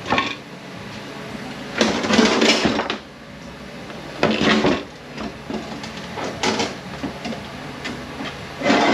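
Metal transmission parts and tools being handled on a workbench, clattering and scraping in four or five short bursts. The longest burst, about a second, comes about two seconds in.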